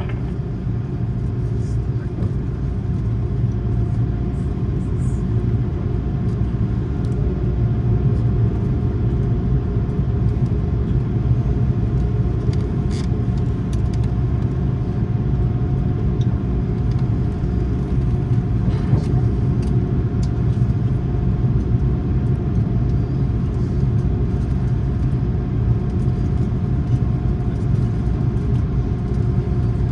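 Steady cabin noise of an Airbus A330-300 with its engines running, heard from inside the cabin: a low rumble with a steady hum over it, and a couple of faint rattles.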